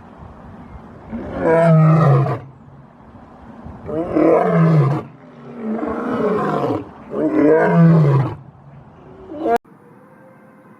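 Lion roaring: four loud, deep calls about a second each, every one falling in pitch, before the sound cuts off suddenly near the end.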